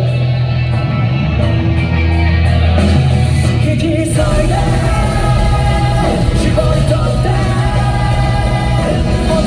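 Japanese rock band playing live: a full band with a lead singer, whose held sung notes come in about four seconds in.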